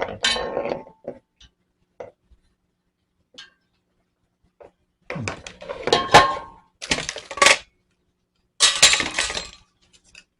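Hard plastic parts of a pet water fountain being opened and handled: clattering at the start, then three bursts of rattling and scraping in the second half.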